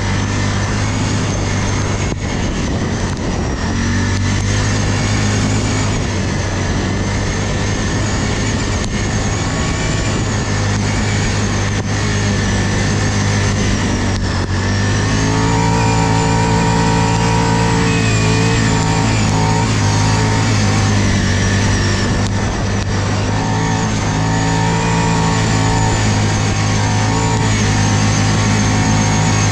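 ATV engine running steadily under load as the quad drives. Its pitch shifts upward about halfway through and again a little later.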